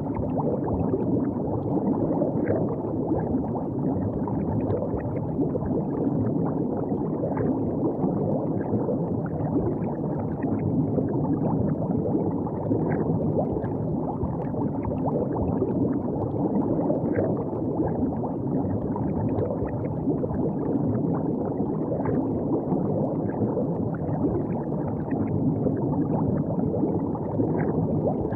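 River water flowing and gurgling steadily at the bank, a low, even wash of sound dotted with small splashy ticks.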